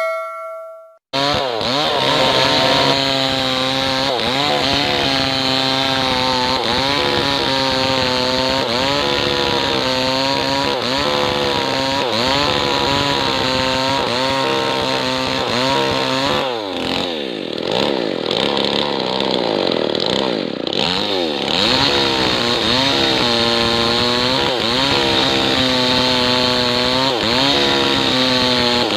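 A chime fades out in the first second, then a Maestro 6500L two-stroke chainsaw runs at high revs, its pitch wavering under load as it rips lengthwise through a kapok log. About two-thirds of the way in, the revs sweep down and back up over a few seconds before the saw carries on cutting.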